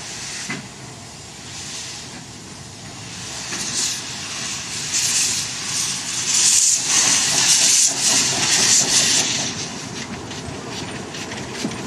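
Steam locomotive hissing steam. The hiss swells about four seconds in, is loudest in the middle, then eases off.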